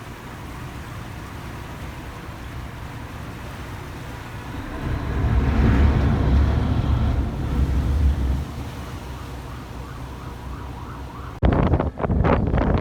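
Low vehicle rumble with a siren wailing faintly over it in the middle, its pitch rising and falling several times. About eleven seconds in it cuts abruptly to wind buffeting the microphone.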